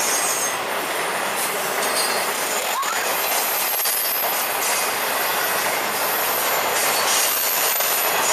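Florida East Coast freight train of flatcars carrying highway trailers rolling past: a steady noise of wheels on rail, with thin high wheel squeals coming and going.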